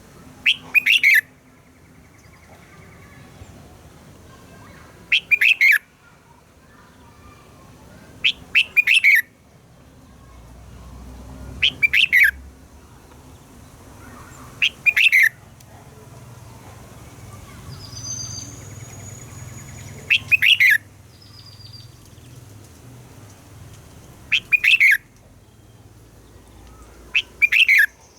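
Red-whiskered bulbul singing short, loud phrases of quick notes, about eight phrases at intervals of a few seconds, with pauses between them.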